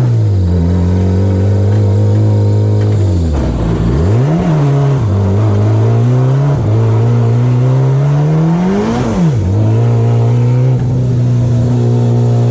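Car engine heard from inside the cabin while driving, its revs climbing and falling several times as the car accelerates and changes gear, with a sharp drop in revs about nine seconds in.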